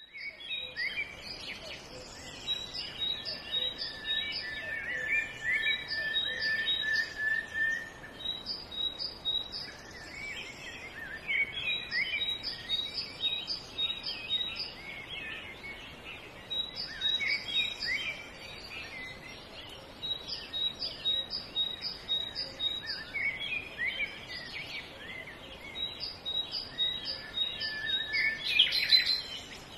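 Several birds singing: one repeats short runs of quick high chirps every few seconds, over other birds' warbles and trills, with a loud flurry of calls near the end.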